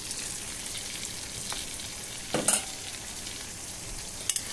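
Bell pepper chunks and green chillies sizzling steadily in hot oil in a metal karahi while being stirred. There is one sharp knock about halfway through and a few quick clicks near the end, likely the spatula against the pan.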